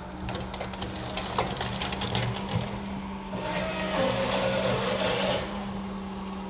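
Steady low engine hum, with a rush of hiss for about two seconds in the middle.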